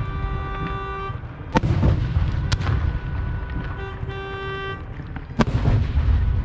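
Fireworks going off: sharp shell bursts about a second and a half in, again a second later, and loudest near the end, over a continuous low rumble of explosions. A steady horn-like tone sounds twice between the bursts.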